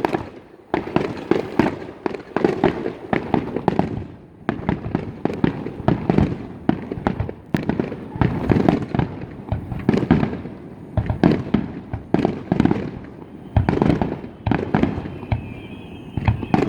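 Fireworks display: shells bursting one after another in a dense barrage of bangs and crackling, with a few short lulls.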